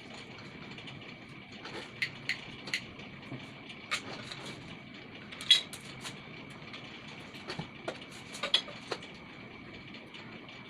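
Scattered clicks and light knocks from handling water pump parts while the rubber check-valve flap is refitted, the sharpest about five and a half seconds in. Behind them is a steady hum with a thin high tone.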